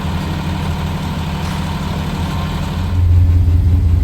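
Fire engine's diesel engine running with a steady low rumble, growing louder about three seconds in.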